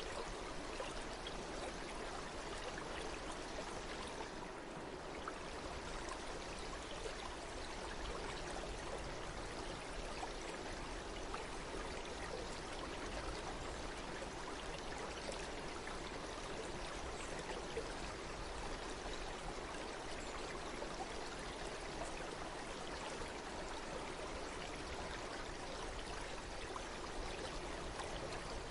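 Water of a stream flowing steadily over stones, an even rushing and trickling.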